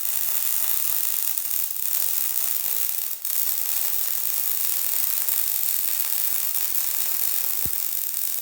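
MIG welding arc from a Hobart Multi Handler 200 burning steadily at 23 volts with 75/25 argon/CO2 shielding gas on 5/16 in steel plate: a continuous sizzling hiss, with a brief dip about three seconds in and one short low thump near the end.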